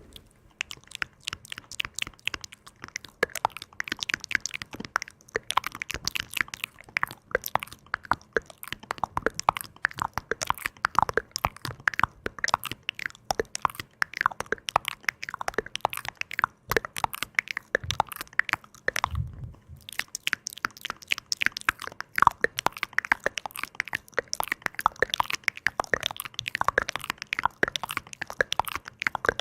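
Dense, irregular crisp crackling and clicking close to the microphone, with a brief pause about two-thirds of the way through.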